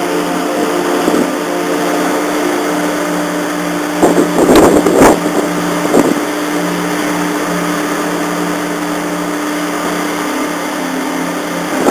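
Car ferry's engines running with a steady, even drone. About four seconds in, a loud rush of noise covers it for roughly a second.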